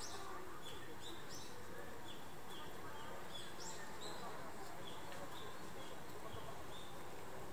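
Birds chirping in a steady run of short, high, falling notes, about two a second, over a low murmur of distant voices.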